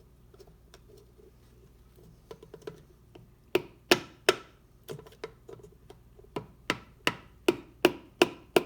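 Light, evenly spaced hammer taps on an engine part to knock it into line during assembly. There are faint small clicks at first, then from about three and a half seconds in a steady run of about a dozen sharp taps, two to three a second.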